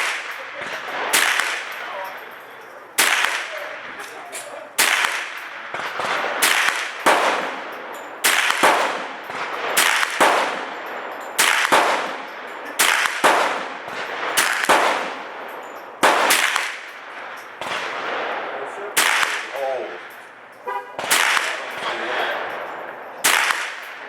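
Sig 522 semi-automatic .22 LR rifle fired rapidly as a string of single shots, about one a second and somewhat irregular, each sharp crack followed by a short echo.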